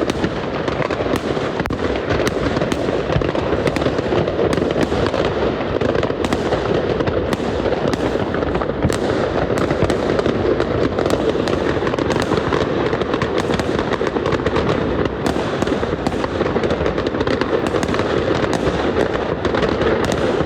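Many fireworks and firecrackers going off at once: a steady, dense crackling din with frequent sharp bangs on top, never pausing.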